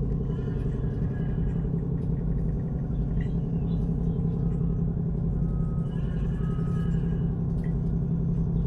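Vessel's engines running at a steady, even rumble, heard on board.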